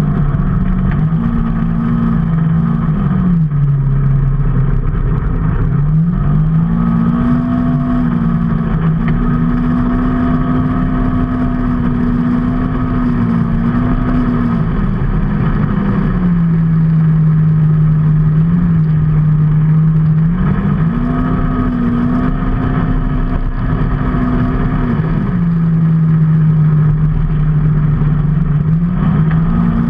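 A motor vehicle's engine running on the move over a steady low road rumble. Its pitch glides up and holds, then drops back, several times: up at about six seconds, down at about sixteen, up again around twenty-one, down at about twenty-five, and up near the end.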